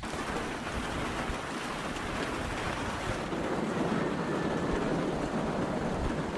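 Steady rushing noise of storm wind and rain, with wind buffeting the microphone; it begins abruptly.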